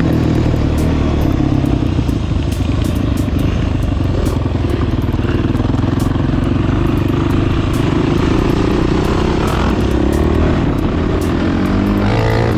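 A 450cc single-cylinder four-stroke off-road engine running under load while riding on a dirt trail. Its note holds fairly steady, with sharp clicks throughout, and revs up near the end.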